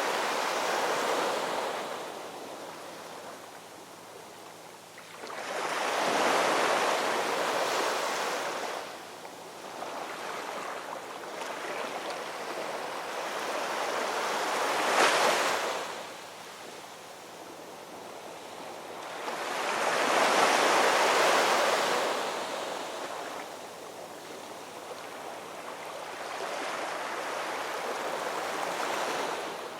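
Ocean surf: waves rolling in and breaking in slow surges, each swell of noise rising and falling away over a few seconds. One wave about halfway through breaks with a sharper crash.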